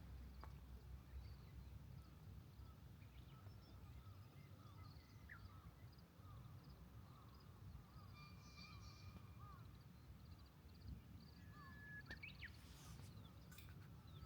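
Near silence outdoors: faint distant bird calls, short chirps and whistles scattered throughout, over a low rumble of wind.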